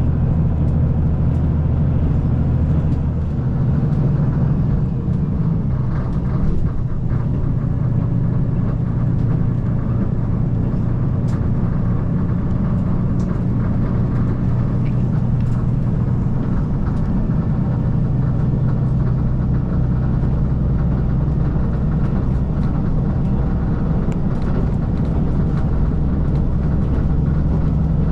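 KiHa 185 series diesel railcar under way, heard from aboard: a steady low engine hum over running noise. The engine note changes about four seconds in and returns near the end.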